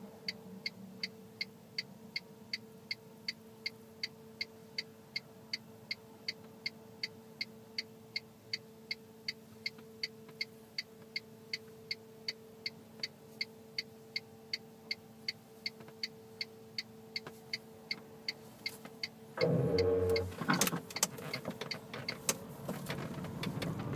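Car turn-signal indicator ticking steadily, about three clicks a second, over a faint steady hum. About nineteen seconds in, a louder, uneven noise comes in and grows toward the end.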